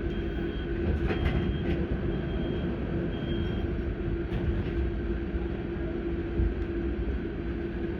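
Cabin sound of an Auckland AM class electric train standing at a station platform: a steady electrical hum from its onboard equipment. A short high beep repeats about once a second for the first few seconds, with a few faint clicks.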